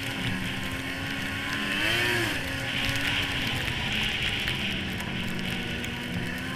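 1998 Arctic Cat SRX 700 snowmobile's two-stroke engine running steadily, revving up and settling back down briefly about two seconds in.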